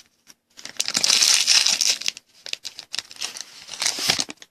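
Trading card pack wrapper being torn open and crinkled by hand: a loud stretch of crackling about a second long, then scattered crinkles.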